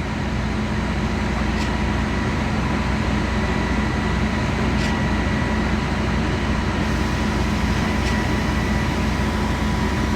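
Heavy diesel truck engines on a concrete pour, the pump truck and ready-mix trucks, running steadily, with a faint tick about every three seconds.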